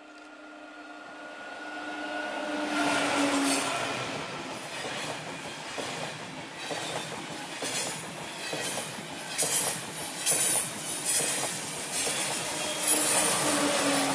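TGV Atlantique high-speed trainset passing close by. A steady whine falls in pitch as the power car goes past about three seconds in, then the rushing wheel noise takes over, with a rapid run of clicks as the bogies cross the rail joints, loudest near the end.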